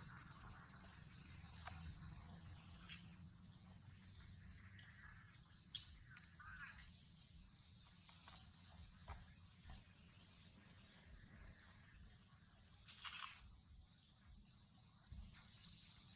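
Steady, high-pitched drone of insects, with a few scattered sharp clicks and rustles over a low rumble.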